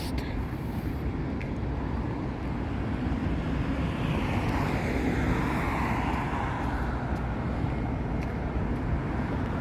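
Steady outdoor traffic noise, with a passing vehicle swelling a few seconds in and fading again.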